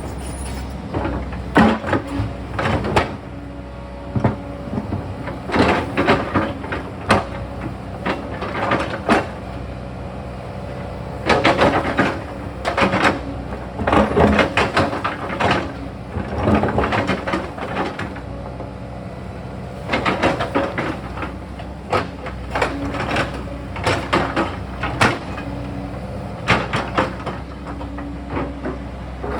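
Sany excavator's diesel engine running steadily while the bucket digs and scrapes, with irregular clanks and knocks of rock and steel in clusters.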